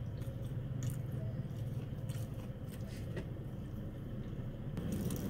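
Biting and chewing crispy fried chicken: several short, sharp crunches of the coating over a steady low hum.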